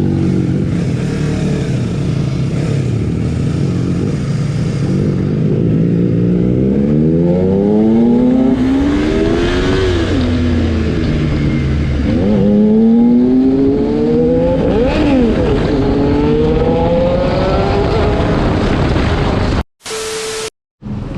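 Sport motorcycle engine running under way, its pitch climbing again and again as it accelerates up through the gears, with road and wind noise. Near the end the sound cuts off abruptly to a brief steady tone.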